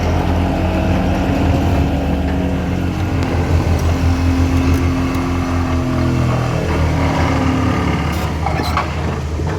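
Motor vehicle engine running steadily at idle, with a deep, even hum.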